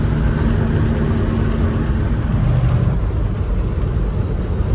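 Semi truck engine running under way with steady road noise; the engine note shifts about two to three seconds in.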